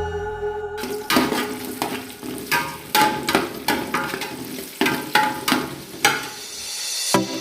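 A spoon stirring in a cooking pot, knocking and scraping against its sides about twice a second, with some of the knocks ringing briefly.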